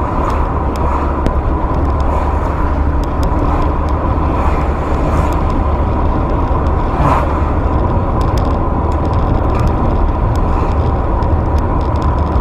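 Car driving, with steady engine and road rumble heard from inside the cabin through a dash camera's microphone.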